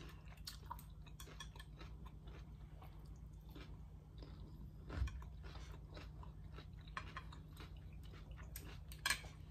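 Close-miked chewing of food, with many soft wet mouth clicks and two louder clicks, one about halfway and one near the end, over a steady low hum.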